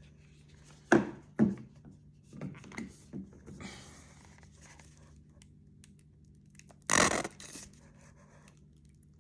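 Food packaging handled in a small room: a couple of sharp knocks, paper rustling and crinkling, and one loud tearing sound about seven seconds in, as ketchup is put on McDonald's fries.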